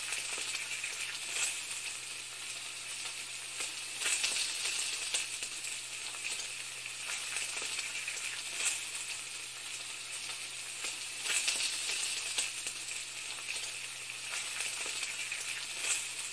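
Frying sizzle: a steady hiss with scattered crackles and pops over a faint low hum.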